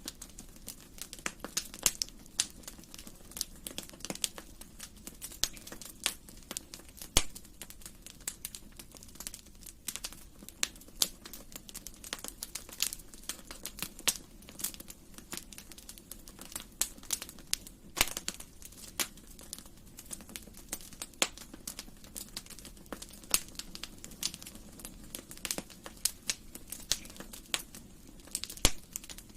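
Wood fire crackling in a fireplace: irregular sharp pops and snaps, some louder than others, over a low steady rush of the flames.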